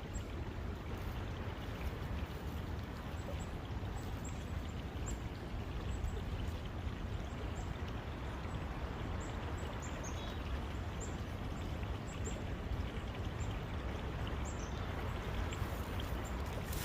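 Steady rush of a brook over a deep low rumble, with faint high bird chirps scattered through the middle.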